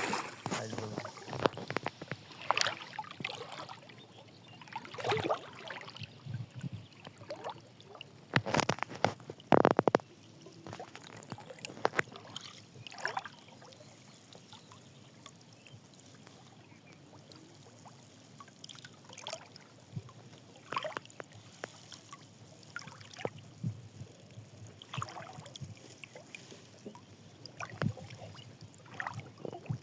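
Fish thrashing in a net in water: irregular splashes and slaps, with a louder cluster about a third of the way in and a quieter stretch after it.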